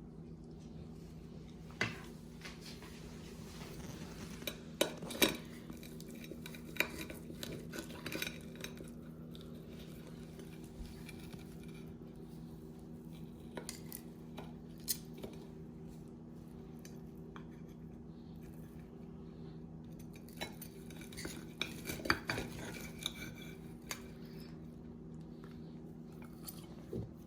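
Serving utensils clicking and clinking against dishes and the cooker pot, in scattered knocks with two busier spells, while cooked beef ribs are plated. A steady low hum runs underneath.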